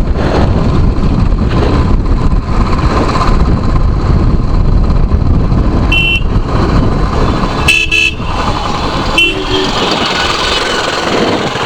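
On-the-move motorcycle noise: a dense low rumble of engine and wind. A vehicle horn toots briefly three times in the second half.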